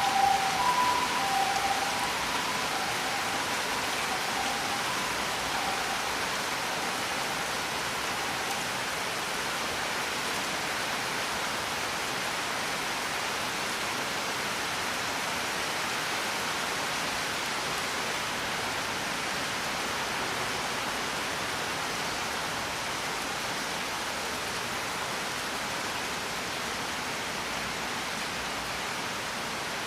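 Steady rain, an even hiss of falling rain with no break. A few held musical tones fade out in the first seconds.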